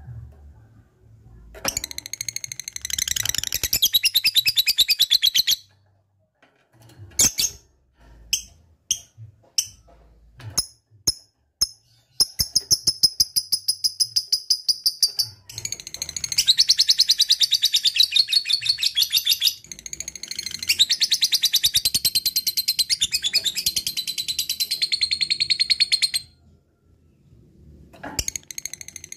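Lovebird singing its long, rapid chattering trill (ngekek): several runs of fast repeated high notes, each a few seconds long, broken by short pauses and a handful of single chirps.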